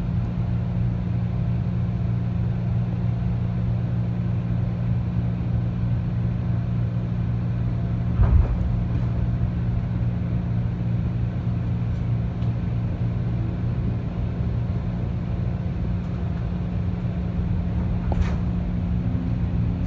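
Steady low hum inside a 211 series electric commuter train car as it pulls away from a station, with a single thump about eight seconds in.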